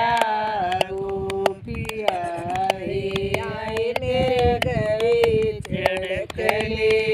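A folk bhajan sung in Hindi dialect: a voice holding and bending long sung notes, over a steady beat of sharp percussive strikes.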